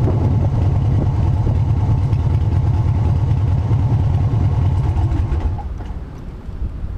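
Harley-Davidson V-twin motorcycle engine running with a low, pulsing beat, which drops away about five and a half seconds in.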